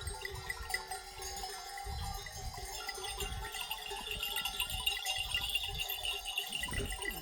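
Many livestock bells on a grazing flock of sheep and goats jingling and clanking together in an uneven stream of strikes, over an irregular low rumble.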